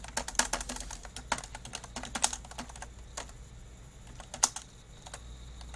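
Computer keyboard being typed on: irregular clicks, quick in the first couple of seconds, then sparser, with a few louder single clicks.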